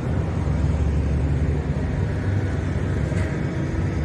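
Steady low rumble of background noise in a large, busy exhibition hall.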